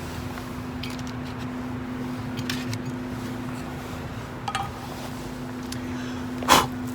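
A few faint ticks and clinks of camp gear being handled, then one sharp knock near the end, over a steady low hum.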